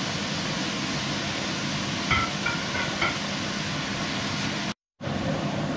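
Shredded cabbage and vegetable filling sizzling in a pot as salami slices are added and stirred in with a spatula, a steady frying hiss. It cuts out briefly near the end.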